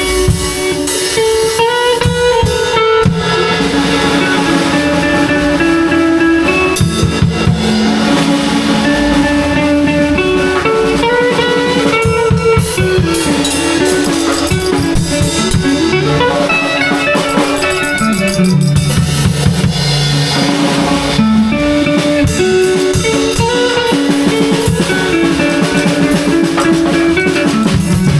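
Band improvising: guitar playing melodic lines over a drum kit, loud and continuous.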